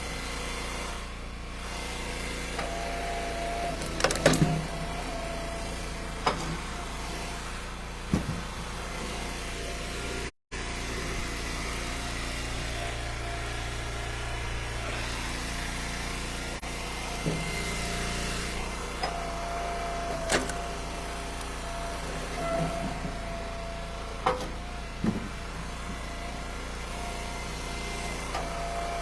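Eastonmade Ultra wood splitter running steadily, with a higher whine in some stretches as it works. Sharp cracks and knocks of ash rounds splitting and pieces landing come several times, the loudest about four seconds in.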